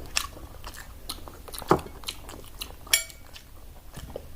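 Close-up eating sounds at a meal: chewing and mouth clicks with scattered taps of dishes, and one clink that rings briefly about three seconds in.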